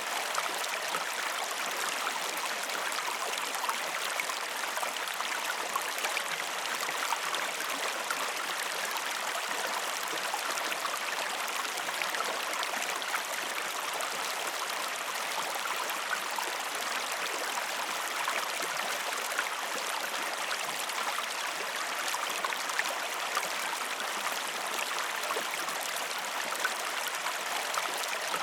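A river or stream flowing steadily, an even rush of running water with small splashes and droplet ticks through it.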